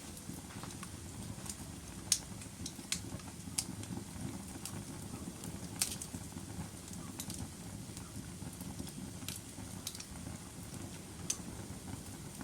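Wood logs burning in a fireplace: a steady low rumble of the flames with sharp crackles and pops at irregular intervals, the loudest pop about two seconds in.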